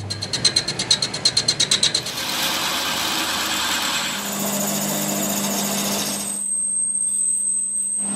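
Workshop power tools in short clips: a fast rattling of about eight pulses a second, then a steady grinding noise with a low hum, which cuts off abruptly about six seconds in.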